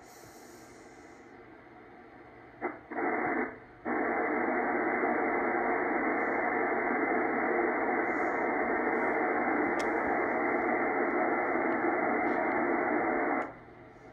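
Yaesu FT102 receiver static from its speaker: dense hiss limited to the receiver's narrow audio passband. It comes up in two short bursts about three seconds in, then holds steady for about ten seconds before dropping away near the end.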